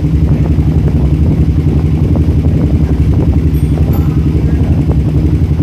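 Suzuki Belang R150 single-cylinder four-stroke engine idling steadily, running after being refitted to the motorcycle.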